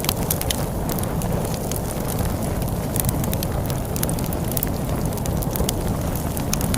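Log fire crackling with frequent sharp pops over a steady low rumble of storm wind.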